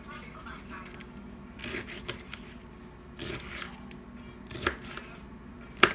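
Handling noises: a few short rustling scrapes, then two sharp clicks, the second one, just before the end, the loudest.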